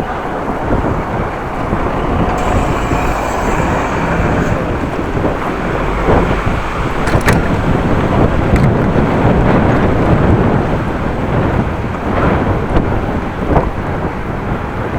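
Gusty wind rumbling on the microphone while riding a bicycle, mixed with road noise, with a couple of sharp clicks about halfway through.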